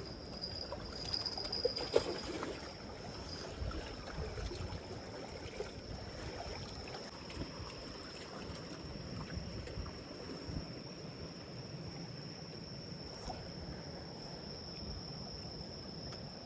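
Water sloshing and trickling against a breakwater, with a steady high-pitched whine throughout and a few light knocks in the first couple of seconds.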